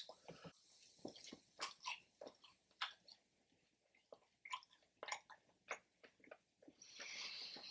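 Close-miked chewing of fried chicken: faint, scattered wet mouth clicks and smacks, with a soft breathy hiss near the end.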